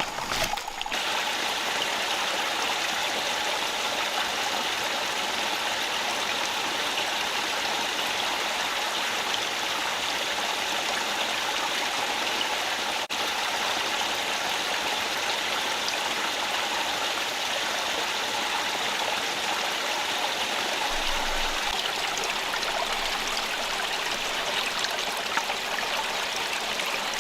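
Rocky rainforest stream rushing steadily over stones, an even wash of running water that dips for an instant about halfway.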